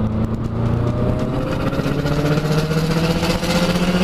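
Car engine pulling under acceleration, heard from inside the cabin, its pitch climbing steadily.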